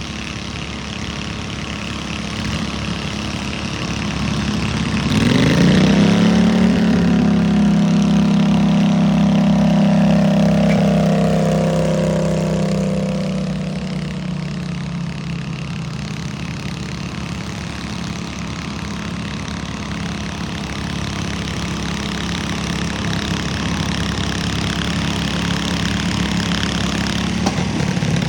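Small single-cylinder engine of a pulling lawn mower. It runs steadily, revs up sharply about five seconds in, holds high revs for around eight seconds, then drops back to a lower steady run.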